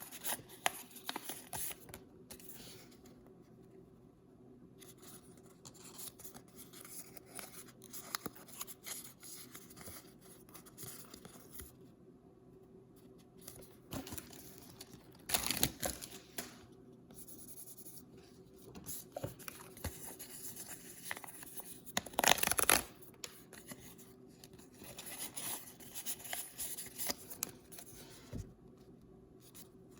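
Paper blind-bag toy packaging being handled and opened: crinkling and scratching throughout, with two louder tearing sounds, about halfway through and about three-quarters of the way through.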